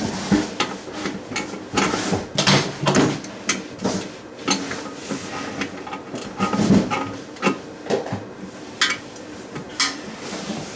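Irregular clicks, taps and clatter of small plastic and metal parts being handled and snapped together: toilet closet-bolt washers, retainer pieces and nuts being fitted.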